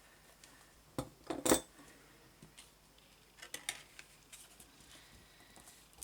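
A few light knocks and clicks of small objects being handled and set down on a craft table, the loudest about one and a half seconds in and a small cluster around three and a half seconds.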